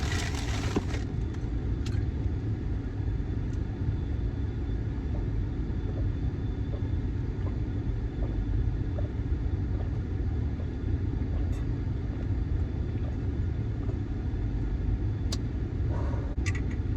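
Car running steadily, heard from inside the cabin as a low, even rumble with no revving.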